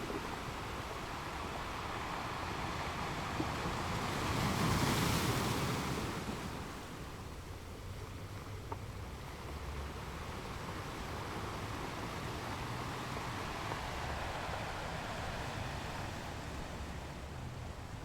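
Gentle ocean waves on a beach. One wave surges in and peaks about four to six seconds in, then falls back to a steady low wash of surf.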